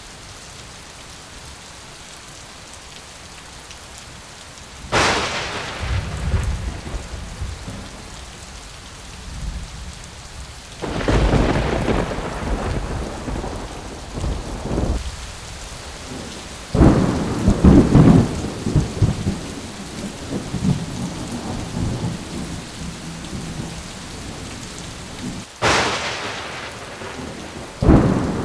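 Thunderstorm: steady rain with four claps of thunder, each starting sharply and rolling into a low rumble for a few seconds.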